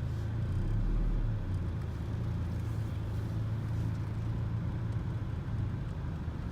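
Car cabin rumble of engine and road noise while driving on freshly replaced brakes and rotors, with a deeper swell about a second in. No brake squeal is heard: the new brakes are quiet.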